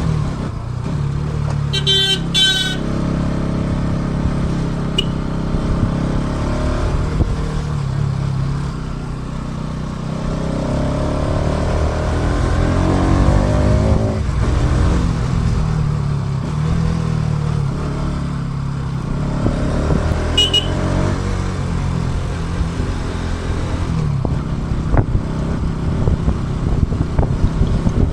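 Motorcycle engine running while riding in traffic, with wind and road rumble on an action camera's built-in microphone. A vehicle horn beeps in a few quick toots about two seconds in and briefly again about two-thirds of the way through.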